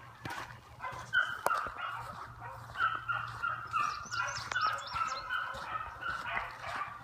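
Beagles baying on a trail, a run of short repeated yelping calls, several a second and at slightly different pitches, starting about a second in. Two sharp clicks cut through the baying.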